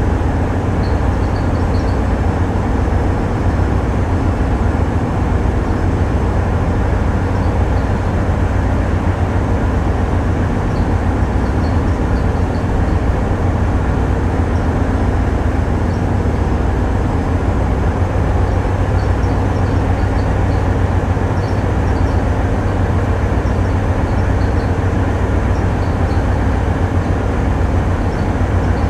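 Tugboat's diesel engines running, a steady, heavy low drone that holds an even level throughout.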